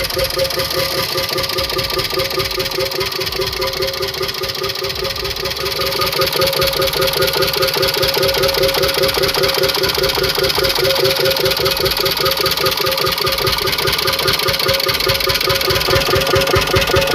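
Petter semi-diesel engine running steadily with an even, rapid exhaust beat, growing louder about six seconds in.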